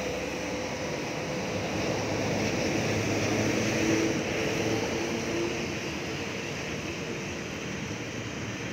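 Street traffic: a motor vehicle's engine hum passes by, swelling about three to five seconds in, over a steady hiss.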